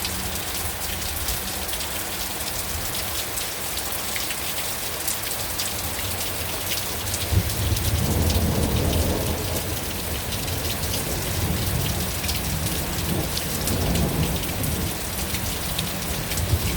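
Heavy rain falling steadily, with a long roll of thunder that starts about halfway through, is loudest for a second or two, then rumbles on for several seconds.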